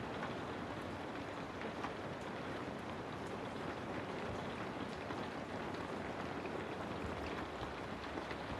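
Steady rain on a surface, an even hiss with faint scattered drop ticks, used as white noise.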